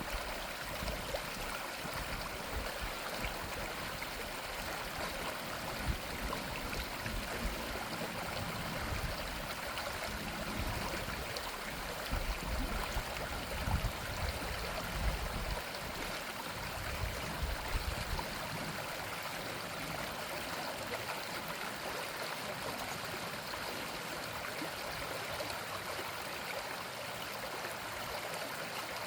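Small brook flowing and splashing over its bed, a steady rushing water sound. About a third of the way in, irregular low rumbles come and go for some ten seconds.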